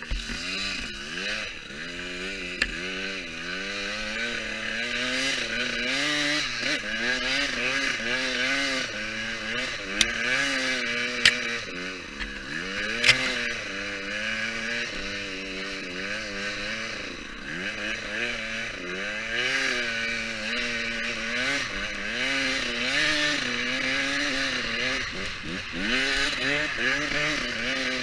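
Motocross bike engine revving up and down over and over as it is ridden, its pitch climbing and dropping every second or two, over a steady hiss. A few sharp clicks come through around the middle.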